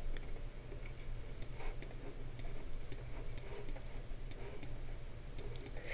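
Faint computer mouse clicks, slightly unevenly spaced at about two to three a second, over a low steady hum.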